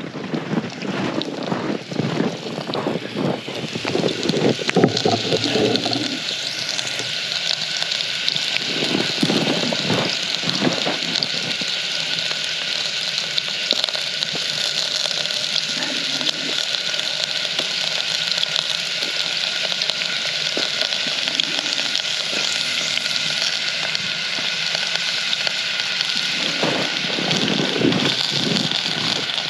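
Onions and other vegetables sizzling in a pan over a wood fire: a steady hiss. Scattered knocks of handling the pan and food in the first few seconds and again near the end.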